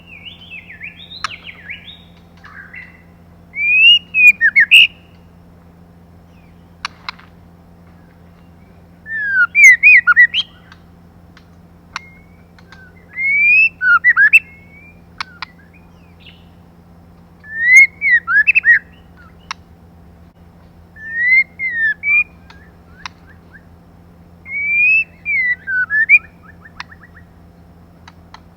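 Female white-rumped shama giving short whistled call phrases, each a quick cluster of rising and falling notes, repeated about every four seconds, the kind of calls played to excite male shamas. A few sharp clicks fall between the phrases over a faint steady hum.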